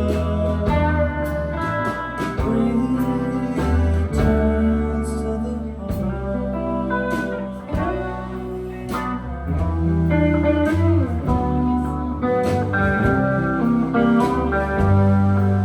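Live band playing an instrumental passage of a song: guitar over bass notes and drums, with no singing.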